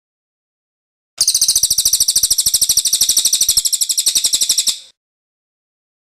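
A cililin bird singing its rolling trill (ngerol): a rapid, high-pitched run of evenly repeated notes. It starts about a second in and lasts about three and a half seconds.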